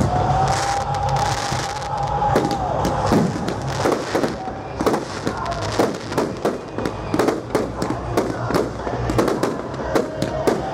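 Aerial fireworks going off: a steady whistle for about the first three seconds, then a rapid run of bangs and crackles to the end.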